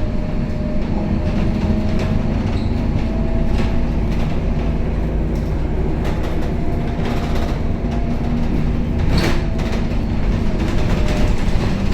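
Scania K270UB city bus heard from inside the cabin while running: a steady engine and drivetrain hum with a thin whine over it, and the body and fittings rattling and clicking. There is one sharper clack about nine seconds in.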